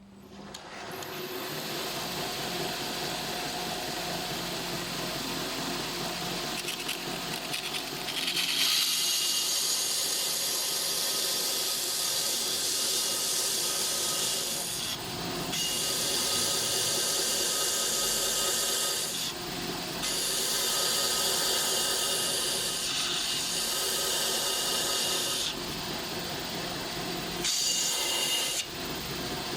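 Belt grinder running, then grinding a wooden pencil from about eight seconds in. The grinding gets louder and harsher and breaks off briefly several times.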